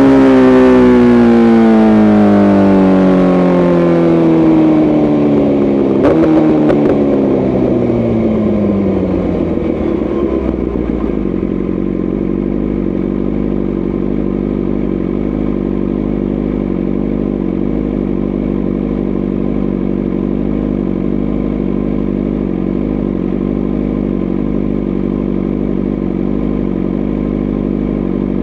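BMW S1000RR inline-four engine winding down as the bike decelerates, its pitch falling steadily for about ten seconds with a brief click about six seconds in, then settling into a steady, pulsing idle.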